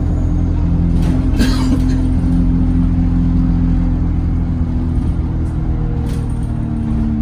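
ADL Enviro 200 single-deck bus heard from inside, its diesel engine and drivetrain running steadily under way with a few held droning tones that shift slightly in pitch. There is a brief hiss about a second and a half in.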